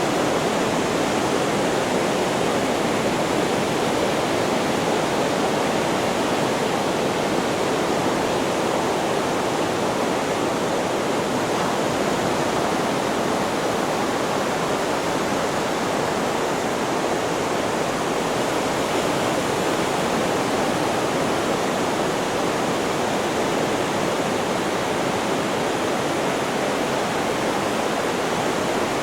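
Steady white-noise track: an even, unbroken rushing hiss, heavier in the low-middle range, with no rise and fall of breaking waves.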